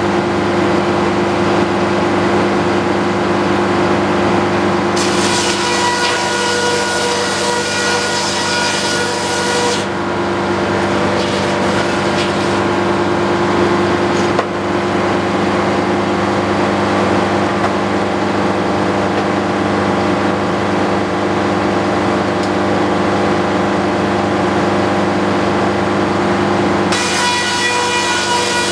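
Antique circular sawmill running steadily with a constant hum, its blade biting into a utility-pole log in stretches: a cut from about five to ten seconds in, a lighter one shortly after, and another beginning near the end, each a rasping, ringing whine over the hum.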